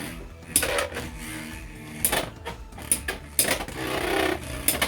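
Two Beyblade X Hells Hammer 3-70 Hexa spinning tops battling in a plastic stadium, clashing several times with sharp clacking hits over the whir of their spin.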